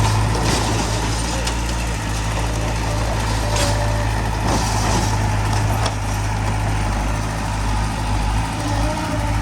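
Heavy diesel earthmoving machinery running steadily at a low hum, with a couple of short hisses about three and a half and five seconds in.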